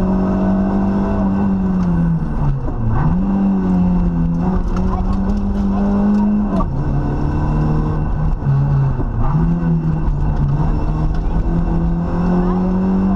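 Rally car engine at speed, heard from inside the cabin. The engine note dips sharply in pitch and climbs back three times, about two and a half, six and a half and nine seconds in, and rises again near the end.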